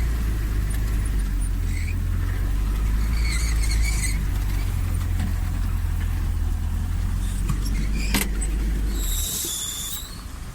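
Off-road vehicle engine running with a steady low rumble, which drops away about nine seconds in. A sharp click comes just before, and a brief high-pitched squeal follows as the rumble fades.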